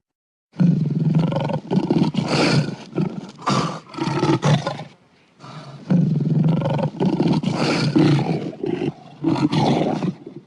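Lion roaring in two long bouts, with a short pause about five seconds in.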